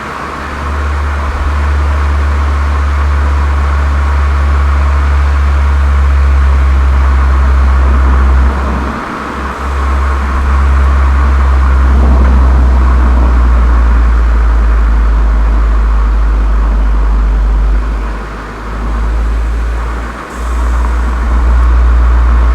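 Volkswagen Golf 7 GTI's turbocharged 2.0-litre four-cylinder with an aftermarket Cox muffler, running with a steady low exhaust drone. The sound dips briefly about nine seconds in and twice near the end.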